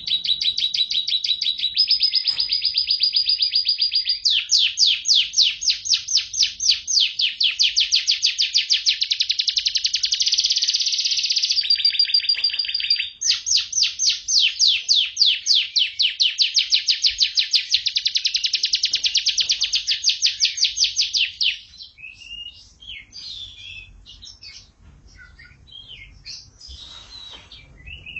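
Domestic canary singing a long song of rapid trills, each a run of repeated notes that shifts to a new pitch and pace every few seconds, with a brief pause about 13 s in. Near the end the song stops and only softer scattered chirps follow.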